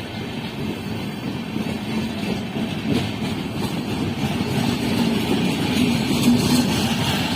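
Indian Railways train running on the track: a steady rumble that slowly grows louder, with a few faint clicks from the wheels on the rails.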